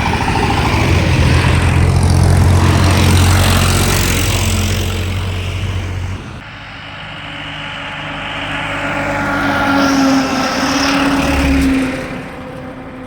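Heavy vehicles passing with engine hum and road noise: one loud pass in the first half that cuts off sharply about six seconds in, then a second vehicle that builds and is loudest just before the end.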